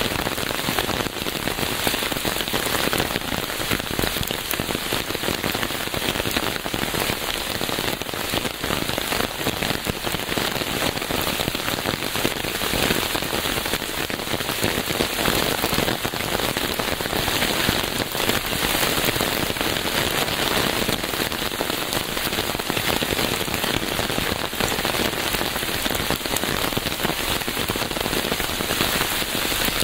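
Steady rain falling on a surface, a dense patter of countless drops.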